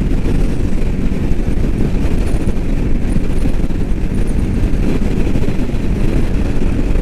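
Royal Enfield Meteor 350 motorcycle cruising at highway speed: a steady rush of wind and road noise, with the single-cylinder engine running underneath.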